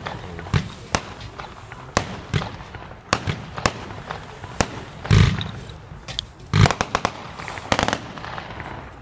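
Consumer New Year's fireworks going off: a steady string of sharp bangs and crackles, with two heavier booms about five and six and a half seconds in.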